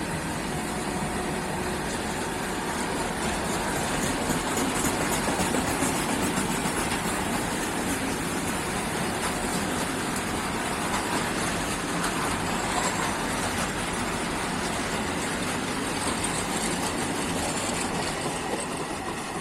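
Freight train wagons carrying army trucks rolling along the track, a steady rolling noise that fades near the end.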